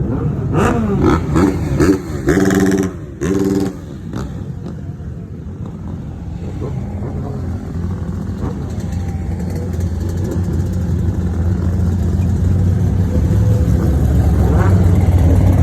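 Sport motorcycle engines revving hard, their pitch sweeping up and down through the first few seconds, with two short steady-pitched blasts about two and three seconds in. Then a steady engine drone that grows steadily louder toward the end, where the revs start climbing again.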